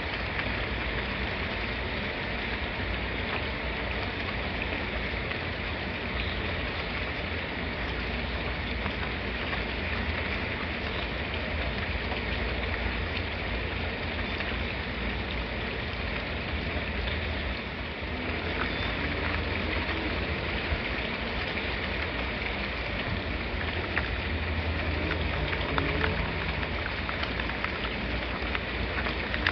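Steady rain falling: an even hiss with a low rumble underneath and a few sharper drop ticks in the latter half.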